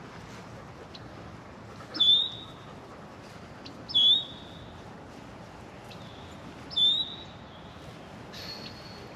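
A bird calling: three short, high, hooked notes about two to three seconds apart over faint steady outdoor background noise.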